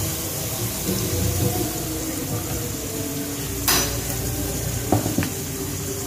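Dough sticks frying in hot oil in a nonstick pan with a steady sizzle, while a spatula scrapes and knocks against the pan as they are lifted out, with a sharp scrape about three and a half seconds in and two lighter knocks about a second later.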